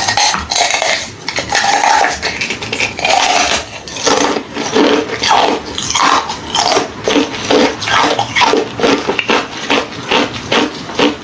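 Close-miked biting and chewing of hollow ice: dense, crisp crackling crunches, coming in strong bites about once or twice a second from about four seconds in.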